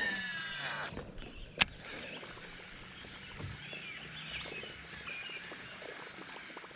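Birds calling in short chirps and whistles over faint outdoor background, opening with a falling call, with a single sharp knock about a second and a half in.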